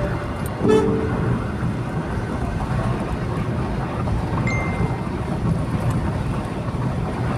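Steady road and engine rumble of a car driving along a highway, with a short horn toot about a second in.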